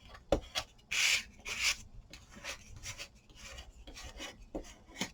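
Spreader scraping across a napkin laid on a glued paper tag, smoothing it down. A run of rubbing strokes, the two loudest about a second in, then lighter ones.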